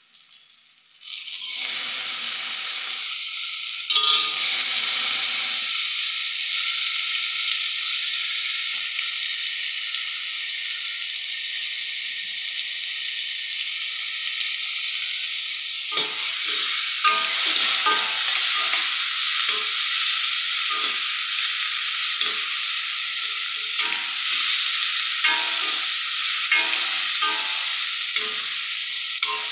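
Chopped tomato frying in hot oil in a stainless steel pot: a steady sizzle that starts about a second in. From about halfway on, a metal ladle clicks and scrapes against the pot as the mixture is stirred.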